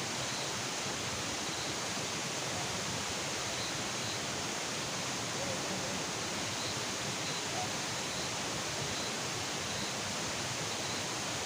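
Steady, even hiss of outdoor night noise, with faint short high chirps repeating about once a second.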